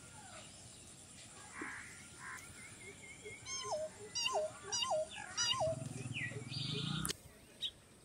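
Birds calling: scattered chirps, then four repeated call notes about half a second apart, each dropping sharply in pitch. Near the end a low rumbling noise comes in, and the recording cuts off abruptly.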